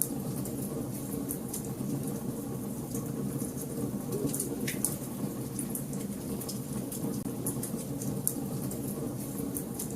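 Wood fire burning in a fireplace: many small crackles and snaps over a steady low rumble of the flames, with one sharper pop a little before halfway.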